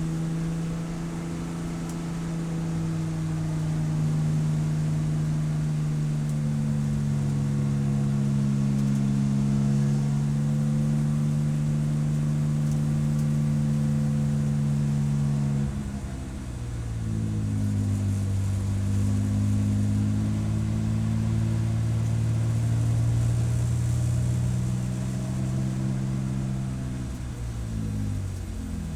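Race car engine running hard on track, holding a steady high note, then dropping suddenly about halfway through as the driver lifts and downshifts. It pulls back up through the revs, then steps down quickly several times near the end as it is shifted down again.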